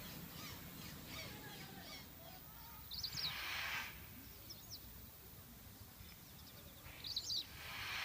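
Children's cheering and shrieks in the distance, swelling up twice, about three seconds in and again near the end, with high squeals over each swell.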